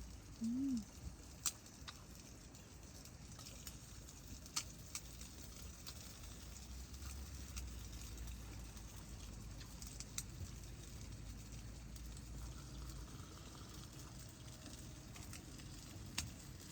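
Wind rumbling on the microphone, heaviest in the middle stretch, with scattered light clicks and taps. A brief low rising-and-falling tone comes about half a second in.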